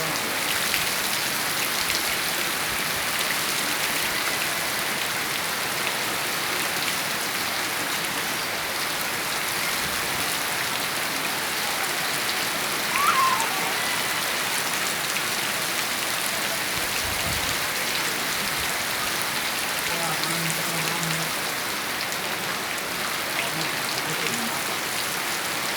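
Steady rain falling, an even hiss of drops hitting surfaces. A brief high chirp stands out about halfway through.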